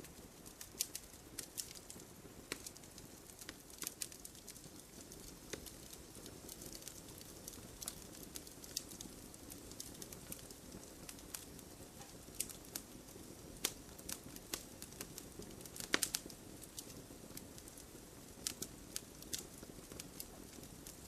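Fire in a fireplace crackling: irregular sharp pops and snaps over a low steady rush of flame, with the loudest pop about sixteen seconds in.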